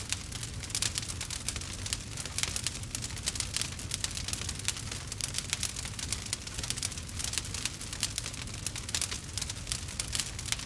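Wood fire in a fireplace crackling: a dense, steady stream of small crackles and snaps over a low, even rumble.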